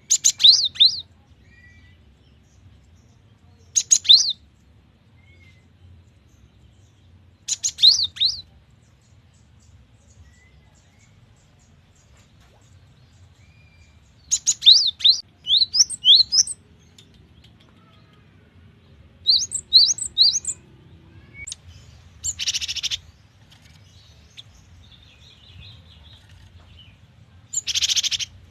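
Gelatik batu (cinereous tit) singing short phrases of quick, high whistled notes every few seconds. Two harsh, buzzy calls come near the end.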